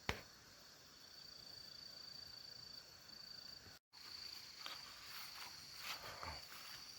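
Night insects trilling in one steady high tone, faint. A sharp click comes right at the start, the sound drops out briefly a little before the middle, and soft rustling handling noises follow in the second half.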